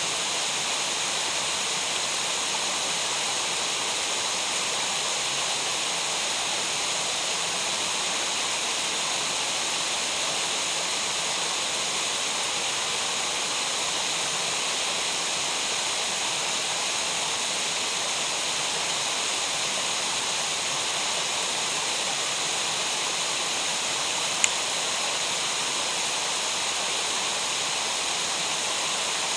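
Steady rush of water from a mountain gorge's stream and falls, with one sharp click near the end.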